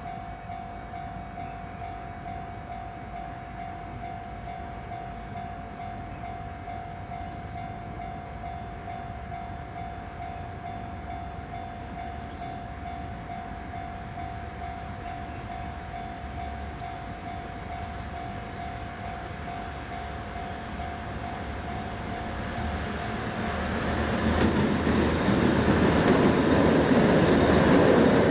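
A steady tone over a low rumble, then the noise of a freight train hauled by two DD51 diesel locomotives growing loud from about 23 seconds in as it approaches.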